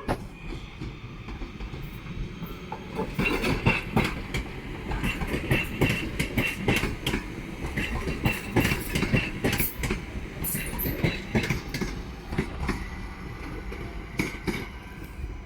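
Train wheels clacking rapidly over rail joints and pointwork as a train runs past, over a steady low rumble, with a high thin whine from the wheels alongside. The clatter is densest between about three and twelve seconds in.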